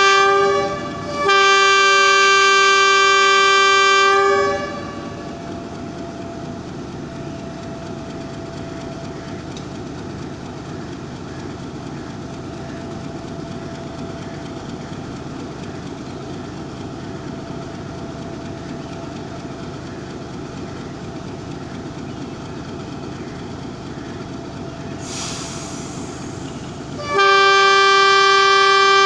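Locomotive's multi-tone horn on a departing passenger train: a short blast, then a long blast of about three seconds, then another long blast near the end. In between, the steady rumble of the train pulling out.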